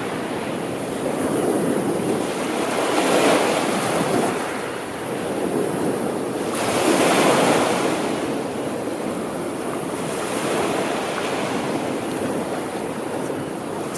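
Sea waves washing onto the shore in a steady surf, the wash swelling louder and falling back every few seconds.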